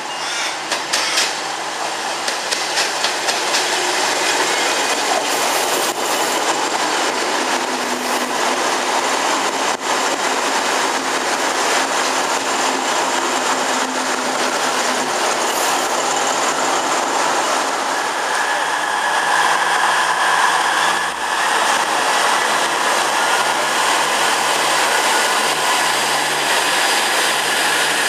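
A V/Line VLocity diesel railcar set running through at close range: its wheels clatter over the points in a quick run of clicks at first, then settle into a steady rolling rumble with engine noise. A steady high whine joins about two-thirds of the way through.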